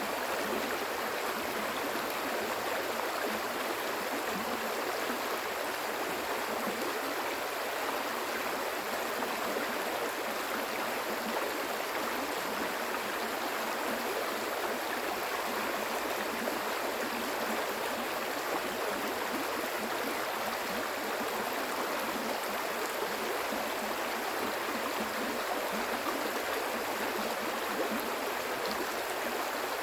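Stream of water flowing and splashing steadily, a constant rushing babble.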